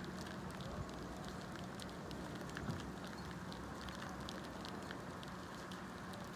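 Light rain falling, a steady hiss with many small scattered drop ticks, over a faint steady low hum.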